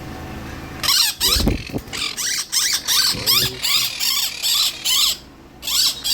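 Parrot giving a rapid series of harsh, raspy screeching calls, about three a second, breaking off briefly near the end before calling again.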